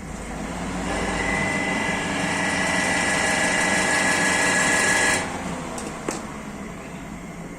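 Electric exhaust fan, a 12-inch Katsu refitted with a used air-conditioner outdoor fan motor, running with a steady motor whine that builds over the first second and drops off sharply about five seconds in. A single sharp click follows about a second later.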